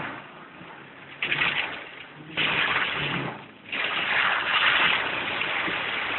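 Rain and rushing water: a hiss of water that comes in surges, starting about a second in and settling into a sustained rush for the last couple of seconds.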